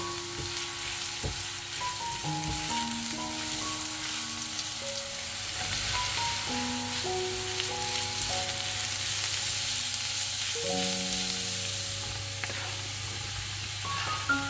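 Chopped onion and vegetables sizzling in hot vegetable oil in a frying pan, a steady frying hiss, with a spatula stirring now and then. Slow background music plays over it.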